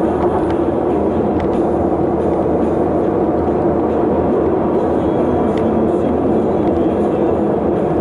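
Steady rumble of a moving vehicle with road noise.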